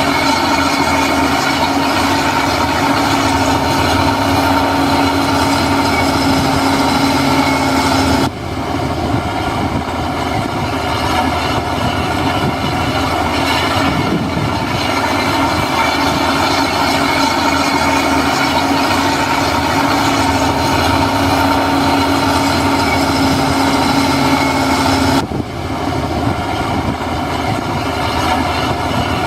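Heavy diesel construction machinery running, a steady loud drone with a held low tone. The sound drops and shifts abruptly about eight seconds in and again near the end.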